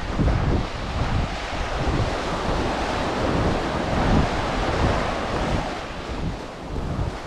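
Ocean surf breaking and washing up the beach, swelling in the middle and easing near the end, with wind buffeting the microphone in low rumbling gusts.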